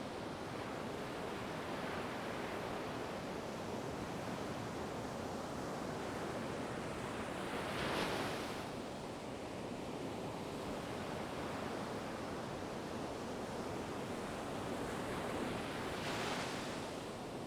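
Ocean waves washing onto a shore in a steady surf rush, with two waves breaking more loudly, about eight seconds in and again near the end.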